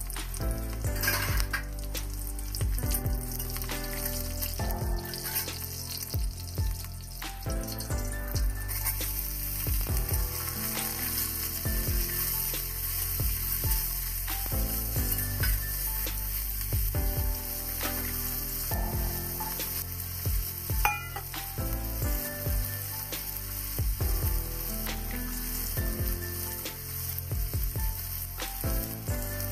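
Sliced onions, garlic and green chilies sizzling in hot oil in an aluminium kadai, stirred with a spatula that scrapes and taps the pan; the sizzle grows louder about nine seconds in. Background music with held notes plays underneath.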